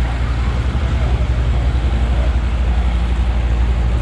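A large engine idling with a deep, steady, rapidly pulsing rumble.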